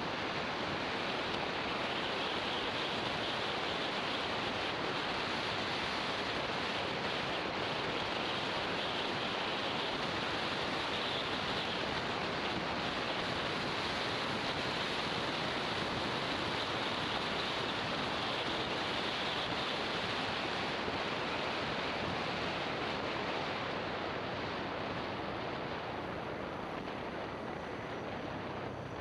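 Steady rush of wind buffeting an action camera's microphone on a moving motorbike, mixed with road noise, easing a little near the end.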